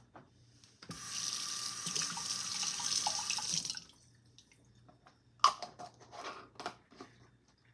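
Water tap running for about three seconds, then stopping, followed by several light knocks and clicks.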